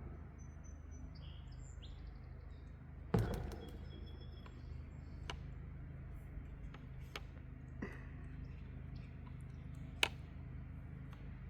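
Birds chirping in short high calls over a steady low hum, with several sharp clicks and knocks, the loudest about three seconds in and another near ten seconds.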